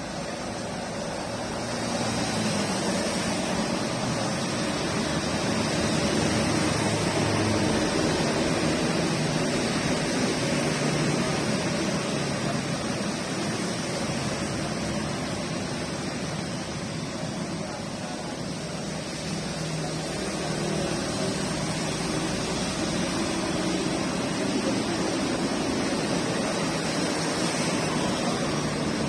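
Steady rain falling: a constant, even hiss that slowly swells and eases in loudness.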